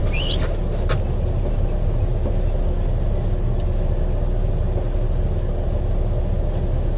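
Vehicle engine running steadily, a low rumble heard from inside the cabin with the window down. A brief rising chirp sounds just after the start.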